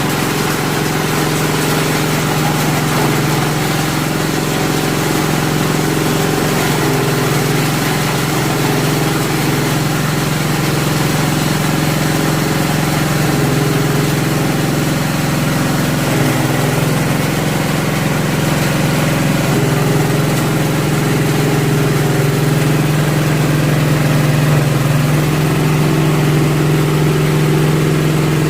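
SM30 multifunction grinding mill running steadily with a strong low hum while grinding corn cobs.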